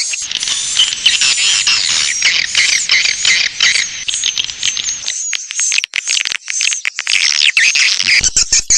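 Swiftlet call-and-lure sound: a dense chorus of high, rapid swiftlet chirps and twitters played without a break. Just before the end it is joined by a fast run of sharp clicks.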